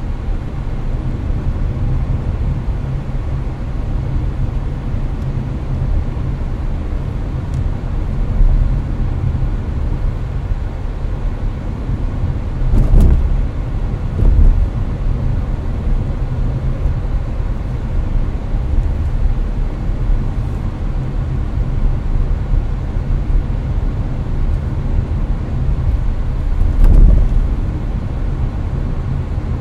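Cabin noise of a Hyundai Avante (Elantra) cruising on the highway: a steady low road and tyre rumble mixed with the air conditioner blowing. A few brief louder thumps stand out, two close together near the middle and one near the end.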